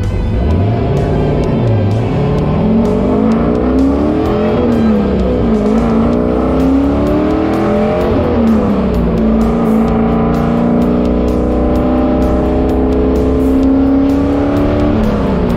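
Turbocharged LS V8 in a stock car accelerating through the gears of a manual gearbox: the engine note climbs, drops at each upshift about two, five and eight seconds in, then settles into a steady cruise with a slow rise before easing off near the end.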